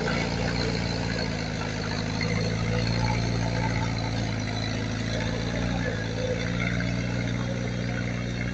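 Heavy earthmoving machine's diesel engine running steadily with an even low drone.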